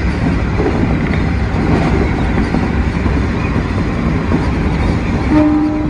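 Keikyu 1000 series electric train running at speed on the line, a steady rumble of wheels on rail. Near the end the train gives a short horn blast, one steady note lasting about half a second.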